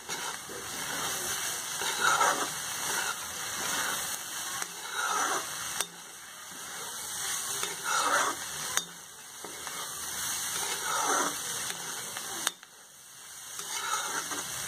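Chopped sem (Indian flat beans) sizzling in oil in a steel kadhai over a high flame, with a spatula scraping through them every few seconds as they are stir-fried until crisp. There are a couple of sharp clicks.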